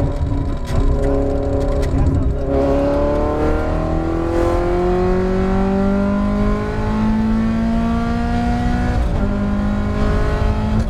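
Ferrari F430 GT race car's V8 engine pulling hard under throttle, its pitch climbing steadily for several seconds. About nine seconds in the pitch drops suddenly with an upshift, then starts climbing again.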